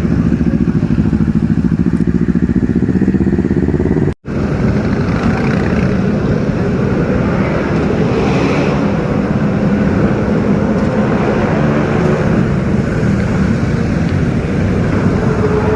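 Superbike engines running loudly. The pitch rises a little over the first four seconds, then the sound cuts out briefly and another stretch of steady engine running follows.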